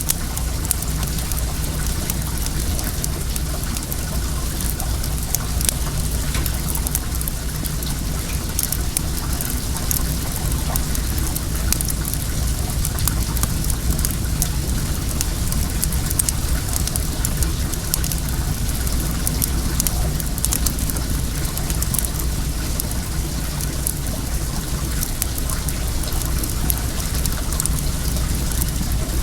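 Well water running steadily, with the sharp snaps and pops of a wood bonfire crackling over it.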